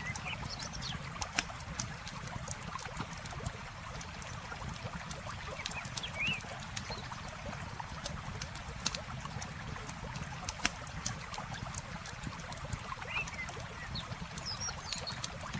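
Wood campfire crackling, with sharp irregular pops over the steady rush of running river water. A few short bird chirps come through now and then.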